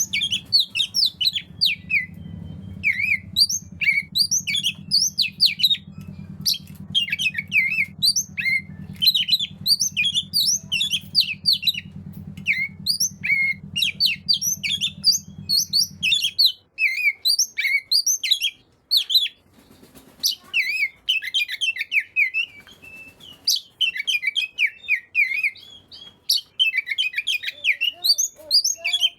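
Oriental magpie-robin (kacer) singing in fast, varied runs of chirps and whistles with hardly a pause: the full, energetic 'gacor' song. A faint low hum underneath stops about sixteen seconds in.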